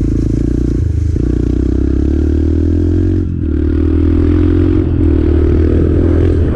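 Yamaha dirt bike engine running at steady, moderate throttle, with a metallic rattle from the loose exhaust heat shield. The engine eases off briefly about halfway through, then picks up again.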